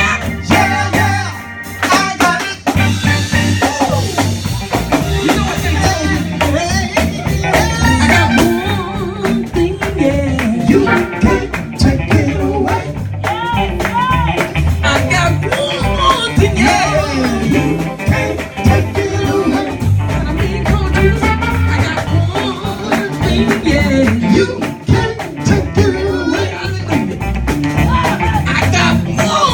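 Gospel band music with a steady beat, with singing over it.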